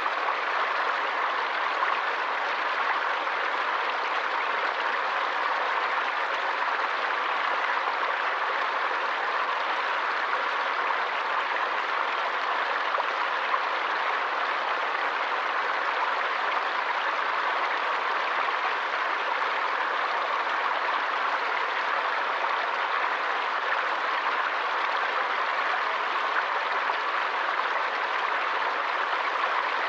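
Forest stream flowing steadily, an even wash of running water with no breaks or changes.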